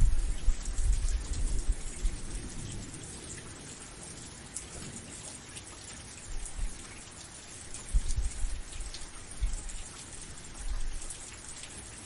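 Steady rain: a continuous hiss of falling rain with fine patter of drops hitting a surface. Low rumbles come and go, loudest in the first two seconds and again several times later on.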